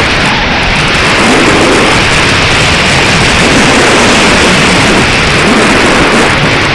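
Strong wind buffeting the microphone: a loud, steady rushing roar with low rumbling gusts.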